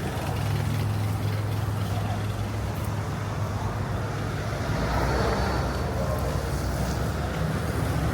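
Steady low hum of a motor vehicle engine running close by, over a general haze of city street traffic noise.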